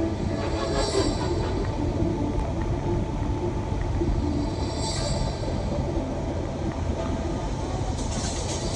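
Steady low rumble of road and engine noise inside a moving shuttle van, with two brief hisses about a second in and about five seconds in.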